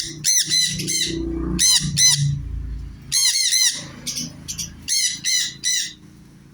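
Sun conures screeching: repeated harsh, shrill calls in short clusters of several notes, stopping about six seconds in.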